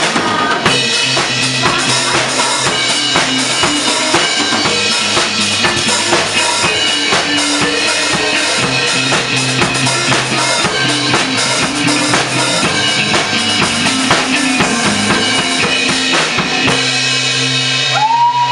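Pop band music: an instrumental stretch carried by a drum kit with kick and snare keeping a steady beat over held bass and keyboard notes, without singing.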